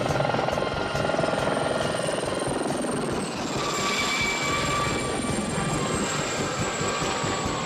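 Helicopter in flight: rotor blades chopping rapidly and steadily over a high turbine whine, which drops slightly in pitch about three seconds in.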